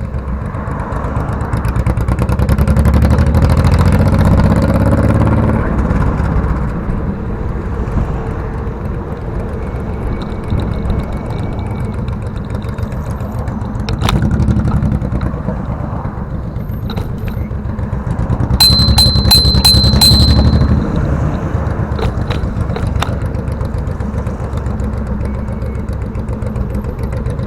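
Rumbling road and wind noise while riding a bicycle along a city street, with motor traffic; it swells louder three times. About two-thirds of the way through comes a brief high squeal with a quick run of clicks.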